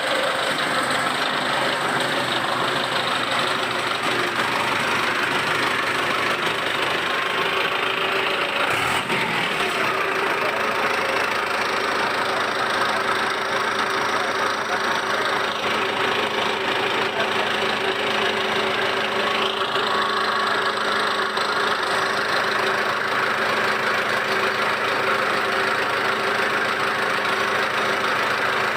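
Belarus 820 4x4 tractor's four-cylinder diesel engine, 81 hp, idling steadily after being started.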